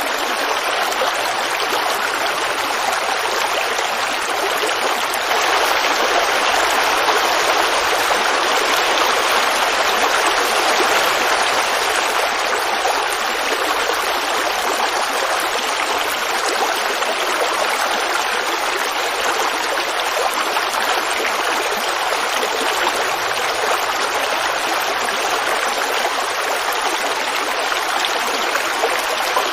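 Creek water babbling over rocks, a steady rushing flow that swells a little for a few seconds about a quarter of the way in.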